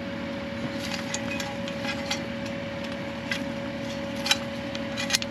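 Kubota KX080 excavator running steadily while its toothed bucket scrapes and knocks at hard ground, giving scattered sharp clicks over the engine hum, the loudest near the end.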